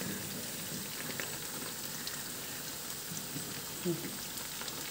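Breaded onion rings frying in hot oil: a steady, fairly quiet sizzle with faint scattered crackles.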